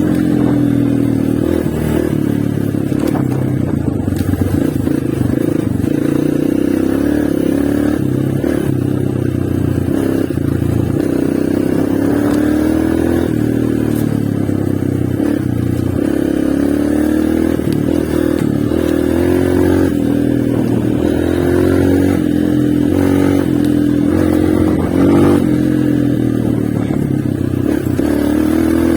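Honda CRF230 dirt bike's single-cylinder four-stroke engine running under way, its revs rising and falling as it is ridden.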